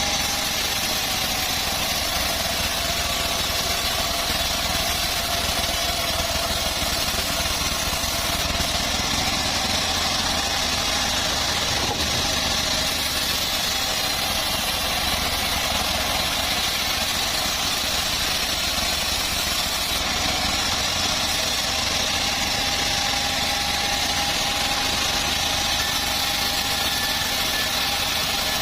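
Homemade bandsaw sawmill running steadily at an even level, with a faint tone that drifts slightly in pitch.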